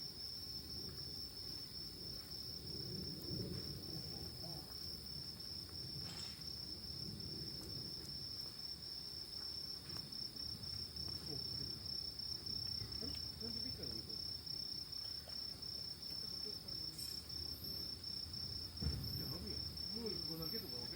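Autumn night insects singing: a cricket's steady, unbroken high trill, joined near the end by a second insect chirping about once a second. Under it runs a low, uneven rumble, and there is one sharp knock near the end.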